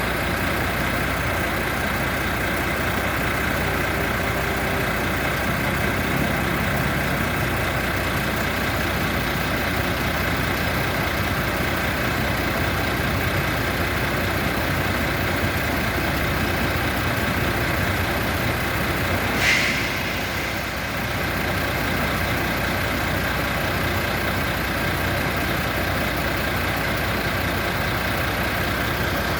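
MAN diesel bus engine running steadily at idle, with a short hiss about two-thirds of the way through.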